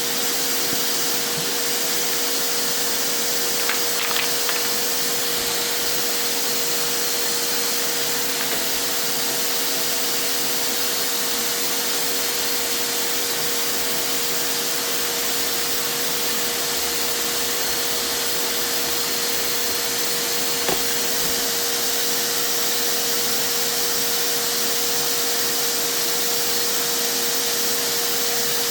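Vacuum cleaner running steadily, blowing air into a motorcycle exhaust to pressurise it for a soap-bubble leak test. A steady hum tone sits under the rushing air, with a couple of faint clicks.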